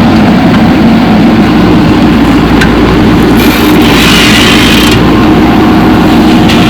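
Diesel engine of a backhoe loader or tractor running steadily, with a short hissing rush about three and a half seconds in.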